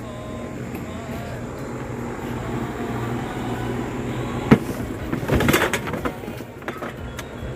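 Steady low hum of a house's outdoor air-conditioning unit running, growing gradually louder. A single sharp knock about four and a half seconds in, followed by a second or so of rustling and scuffing.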